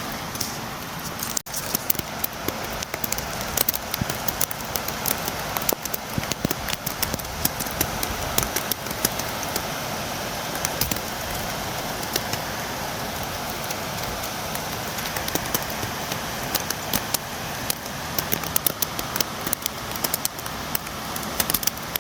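Steady rain falling, with many sharp drops tapping at a window. The sound cuts out for an instant about a second and a half in.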